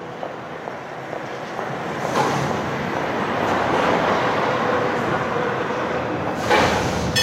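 Tram running on its rails: a steady rumble of wheels and running gear that swells about two seconds in, with a faint steady hum, and grows louder again near the end.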